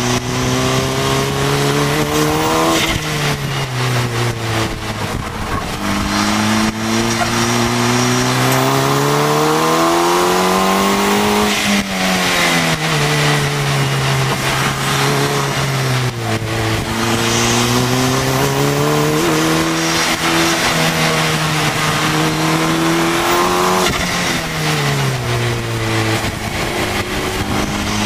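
KTM X-Bow's turbocharged four-cylinder engine heard from the open cockpit while lapping a track, its note climbing in long pulls under acceleration and dropping back at gear changes and when lifting for corners, with wind rush throughout.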